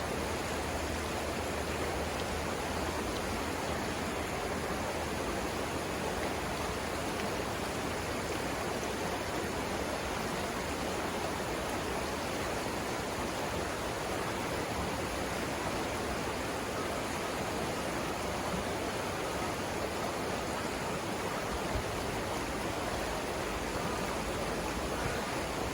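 River rapids: water rushing steadily over rocks in a continuous, even roar.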